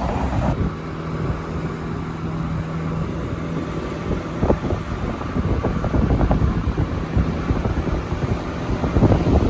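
A car being driven: a steady low engine and road rumble with wind buffeting the microphone, and an engine hum that holds for the first few seconds.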